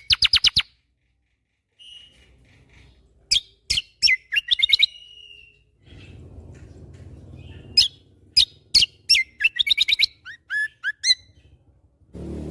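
A kecial kombo (cucak kombo) from Lombok singing in bursts of sharp, rapid notes and short fast trills, with one drawn-out whistled note, separated by pauses of a second or two.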